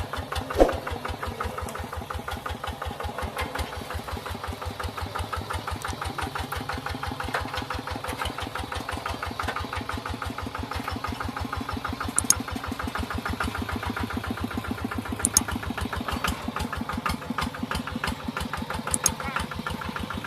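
Tractor engine running steadily with an even, rapid firing beat. There is a sharp knock less than a second in, and a few brief sharp clicks later on.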